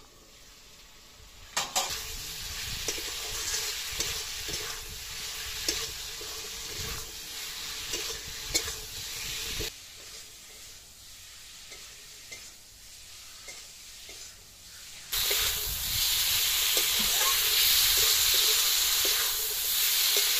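Pointed gourd (parwal) in spice paste sizzling in a metal karahi, with a metal spatula scraping and tapping the pan as it is stirred. After a quieter stretch the sizzling comes back louder near the end.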